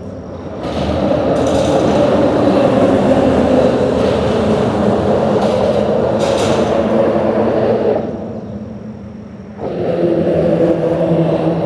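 Vehicles driving across a bridge: one passes from about a second in until about eight seconds, and another comes on loud near the end.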